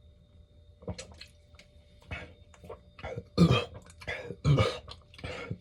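A person making a series of short, harsh, breathy throat sounds, starting about a second in; the two loudest come past the middle.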